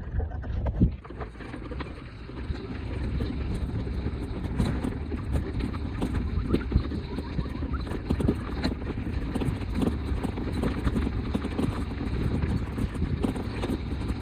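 Bicycle being ridden over a rough street surface: a steady low rumble with frequent knocks and rattles, and one sharp knock about a second in.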